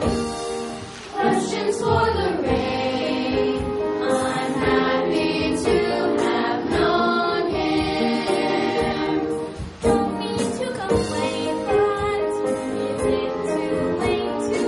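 Children's voices singing a stage-musical song together, the singing coming in about a second in and pausing briefly near ten seconds.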